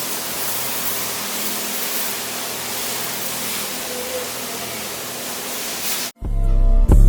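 A steady rushing hiss, like spraying water or wind, that cuts off suddenly about six seconds in; loud music with a heavy bass line follows.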